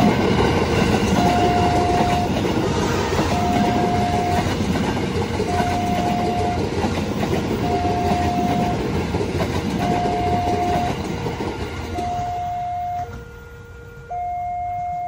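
Train passing over a level crossing, with wheel clatter and rumble, while the crossing's warning siren sounds a high and a low tone in turn, each held about a second. The train noise dies away about twelve seconds in, leaving the two-tone siren alone.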